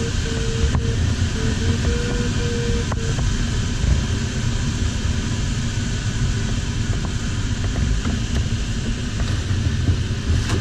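Steady rush of air around a sailplane's cockpit in flight, heard as an even low rumble. During the first three seconds a thin steady mid-pitched tone sounds over it, stepping slightly in pitch before it stops.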